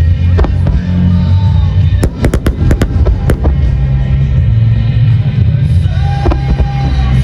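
Aerial firework shells bursting in a dense barrage: a continuous deep booming with sharp cracks, clustered about two to three seconds in and again near the end, over music.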